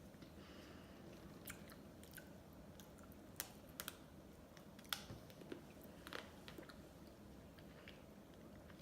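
Faint mouth sounds of someone eating ice cream, with a few sharp clicks in the middle, the loudest about five seconds in.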